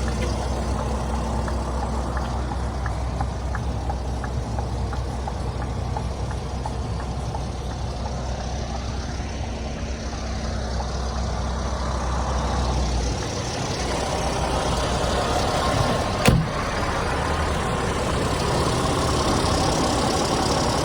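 Scania diesel engine idling steadily. Its low steady note changes about 13 seconds in, and a single sharp click sounds a few seconds later.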